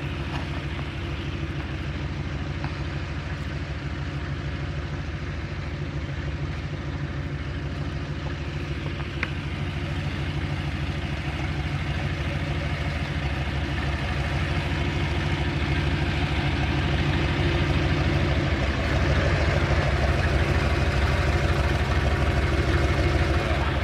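Vehicle engine running steadily, growing slightly louder in the second half.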